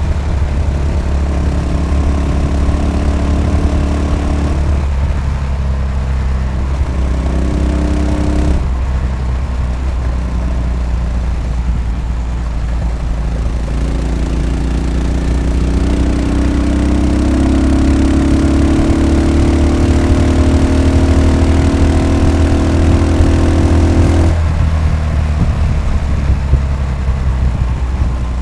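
Yamaha SR500's air-cooled 499 cc single-cylinder four-stroke engine thumping along under way. It eases off about a third of the way in, then pulls with a slowly rising pitch through the second half before the throttle shuts suddenly near the end.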